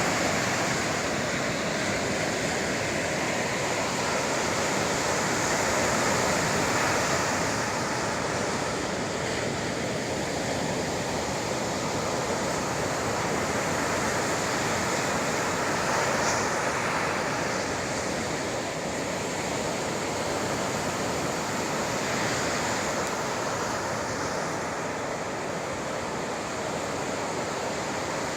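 Sea surf: waves breaking and washing on the shore as a continuous rush that swells and eases every several seconds.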